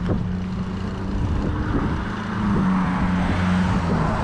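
Motor traffic on the road: a steady engine hum, with road and tyre noise building up in the second half as a vehicle draws near.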